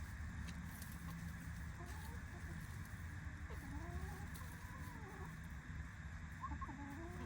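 Backyard hens softly clucking and murmuring, a few short rising and falling calls from about two seconds in, over a steady low hum.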